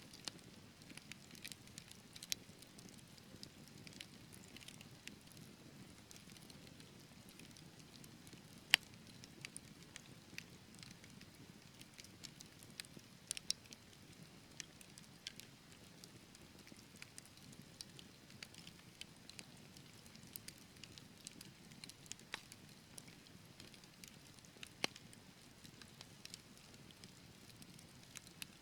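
Wood fire burning in a fireplace: logs crackling with irregular sharp pops over a soft, low rush of flame. The loudest pop comes about nine seconds in.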